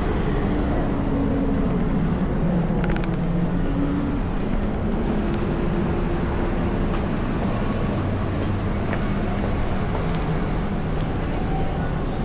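Steady low rumble of urban street traffic, with a vehicle engine hum that drifts slightly in pitch.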